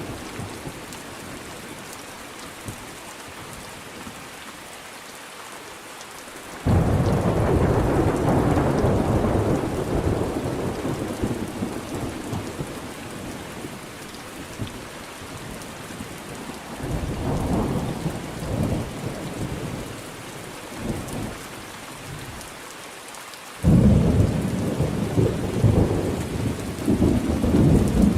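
Thunderstorm: steady rain with rolling thunder. A sudden thunderclap about seven seconds in rumbles on for several seconds, lighter rumbles follow midway, and a second sharp clap near the end rolls on.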